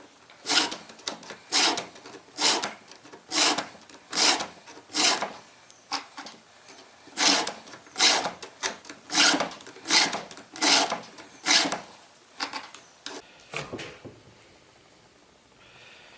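Hand file rasping on the depth-gauge rakers of a Stihl MS290 Farm Boss chainsaw chain, lowering them so the cutters bite deeper. It is a steady series of single forward strokes, a little over one a second, that stops about thirteen seconds in.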